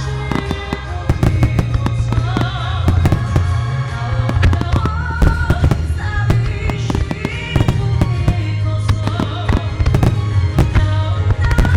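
A rapid barrage of firework shells bursting and crackling, many reports overlapping, over loud music with held tones and a heavy bass line.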